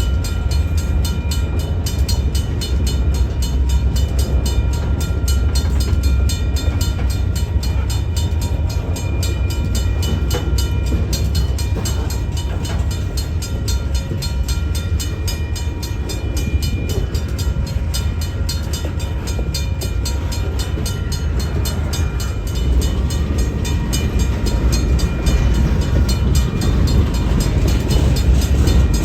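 Freight train rolling past, a steady heavy rumble with several constant high-pitched tones riding over it.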